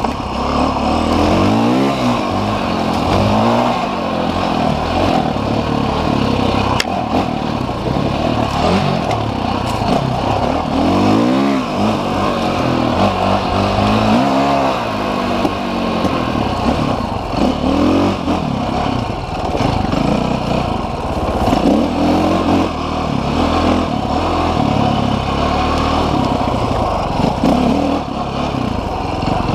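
Off-road motorcycle engine revving up and down over and over, its pitch rising and falling every second or two.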